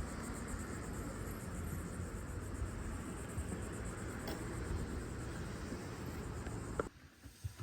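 Steady background noise with a low rumble and a faint, rapid high ticking, which drops off abruptly about seven seconds in.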